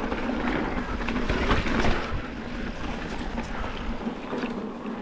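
Mountain bike rolling fast along a dirt trail: steady tyre and wind noise on the microphone, with scattered short knocks and rattles from the bike.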